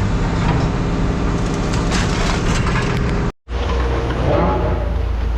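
Scrap metal crunching and clattering over a steady machine hum. The sound drops out completely for a moment about three and a half seconds in, then the hum carries on.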